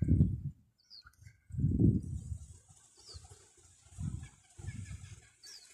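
Small birds giving short, high, falling chirps a few times, over irregular dull low rumbles on the microphone, which are the loudest sound, strongest near the start and about two seconds in.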